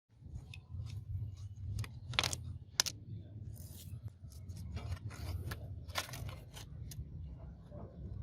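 Small metal clinks and scrapes over a steady low hum, with the sharpest clicks about two and three seconds in and again about six seconds in: metal parts and tools being handled during work on a sword.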